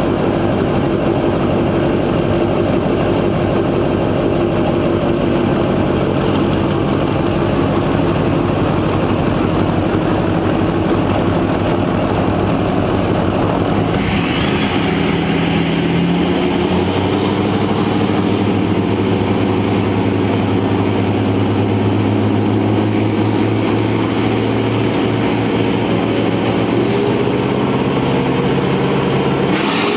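Diesel pickup truck engines running steadily with a low drone. About halfway through the sound changes abruptly, and a faint high whine then climbs slowly in pitch.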